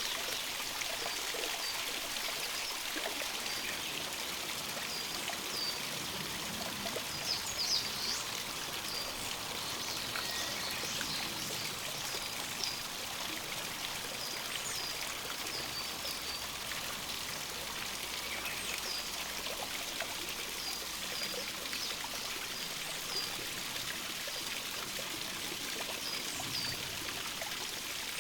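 A small stream running steadily, with many short, high bird calls over it, a few of them louder about seven seconds in.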